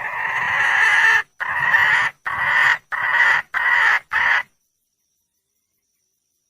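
Wild junglefowl hen calling for a mate: one long call, then five shorter calls in quick succession that grow shorter, stopping about two-thirds of the way in.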